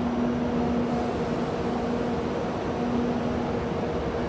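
Steady electrical and mechanical hum of a high-speed train standing at the platform, with a low steady tone and a fainter higher tone over an even rushing noise.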